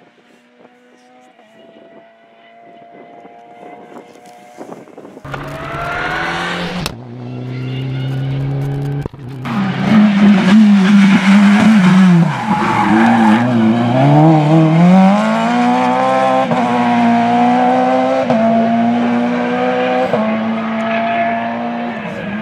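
Rally car on a special stage, faint at first, then close and loud from about ten seconds in. Its engine revs up and down through the gears, dipping in pitch and climbing again as it passes, with tyre squeal.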